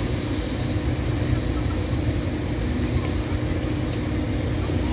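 Standing diesel passenger train idling: a steady low rumble with a constant hum.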